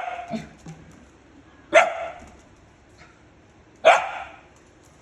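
Puppy barking in alarm at an artificial plant: single sharp barks about two seconds apart, one right at the start, then two more.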